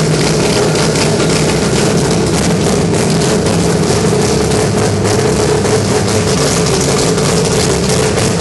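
Mazda 20B three-rotor rotary engine idling steadily and loudly on its first start-up, with no revving.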